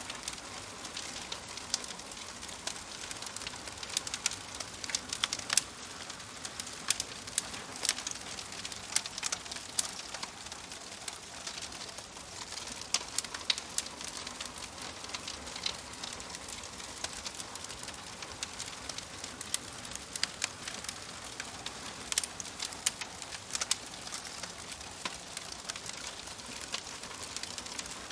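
Wood fire crackling in a fireplace: a steady soft hiss with frequent, irregular sharp pops and snaps.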